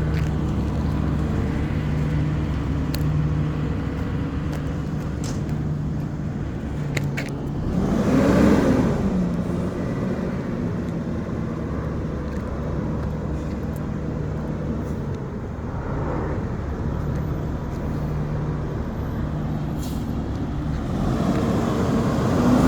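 Garbage truck's diesel engine running steadily, with a vehicle passing by about eight seconds in.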